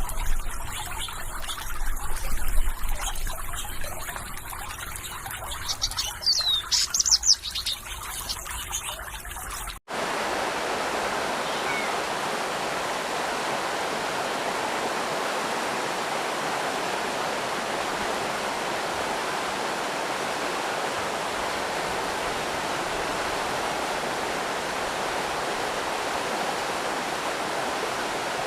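Water trickling over stones with a few short bird chirps, then an abrupt change about ten seconds in to the steady, even rush of a stream or small waterfall.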